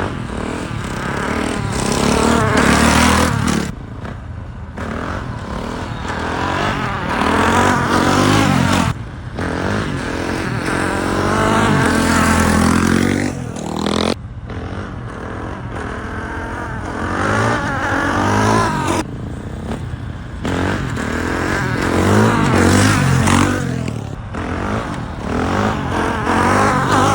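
Honda CRF450R dirt bike's single-cylinder four-stroke engine revving up and down through repeated hard accelerations, with short breaks every few seconds.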